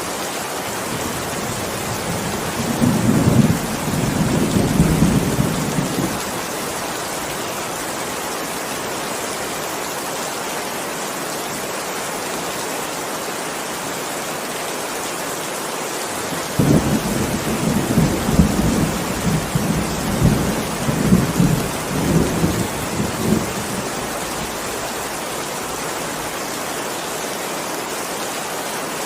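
Steady rain with two rolls of thunder: a rumble a few seconds in, and a longer one that breaks suddenly about halfway through and rolls on for several seconds.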